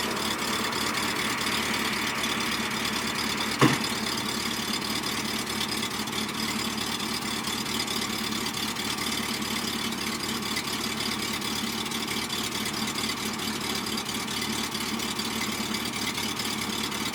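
Truck engine idling steadily, with one brief sharp click about three and a half seconds in.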